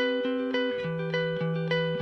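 Music: a clean-toned guitar picking a repeating arpeggio, about three or four notes a second, its low note stepping down about a second in.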